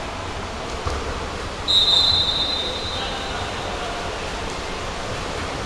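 Referee's whistle: one long shrill blast of about a second, starting a little under two seconds in, over the steady background noise of the pool hall.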